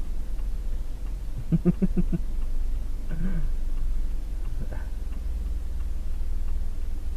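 Steady low rumble of a car's engine and road noise inside the cabin. About a second and a half in comes a short run of quick pulsed vocal sounds, and there are two brief vocal sounds around three and five seconds in.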